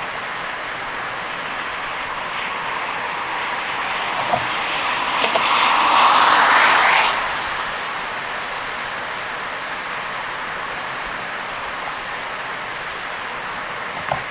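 Steady rush of heavy rain and tyre spray on a wet road. A louder rush builds about four seconds in and falls away near seven seconds, with a few light knocks, and there is one sharp knock near the end.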